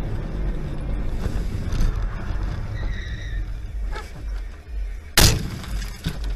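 Road and engine rumble inside a moving car recorded by a dashcam, with a brief high tone about three seconds in. About five seconds in comes a single loud, sharp bang: the impact of a collision.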